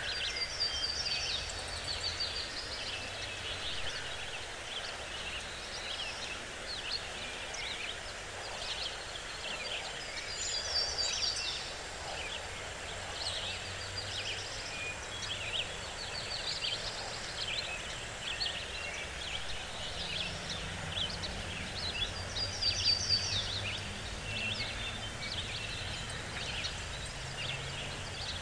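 Forest birds calling and singing, a dense stream of short chirps with a quick trill of high repeated notes coming back every several seconds, over a low steady rumble.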